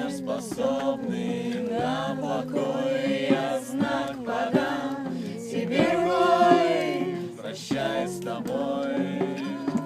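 Song with several voices singing together over a steady low held note, without clear words.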